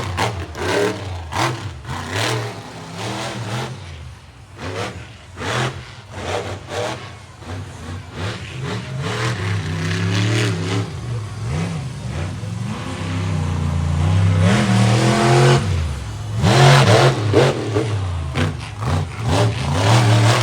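Monster truck engine revving hard, in short throttle stabs at first, then longer pulls that rise and fall in pitch, loudest over the last few seconds.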